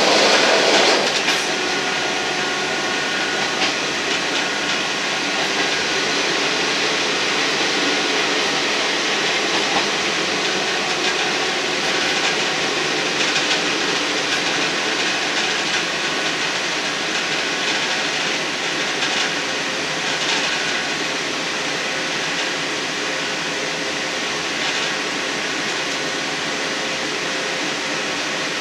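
Running noise of a Class 158-derived diesel multiple unit travelling along the track: a steady rumble of engine and wheels on rail, louder for about the first second as the train crosses a steel truss bridge, with a few light clicks from the rails.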